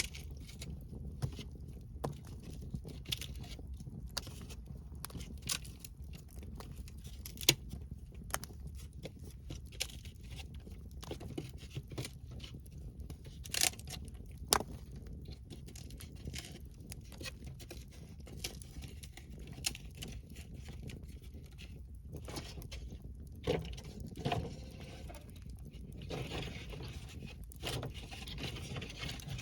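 Wood fire crackling, with sharp pops scattered at irregular intervals; the crackle grows denser near the end.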